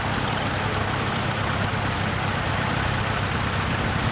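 Vintage tractor engine running steadily: an even low hum under a constant hiss.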